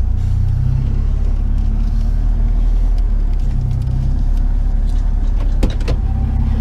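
Vehicle engine running with a steady low rumble; a single sharp knock about five and a half seconds in.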